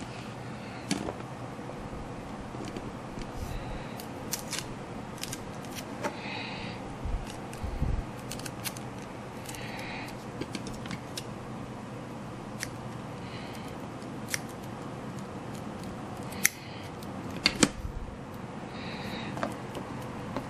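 Scissors snipping through craft material several times, with scattered sharp clicks and handling noises over a steady low hum.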